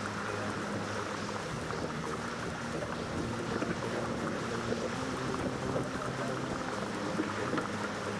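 Wind buffeting the camera microphone and water rushing along the hull of a 470 sailing dinghy under way, with a steady low hum underneath.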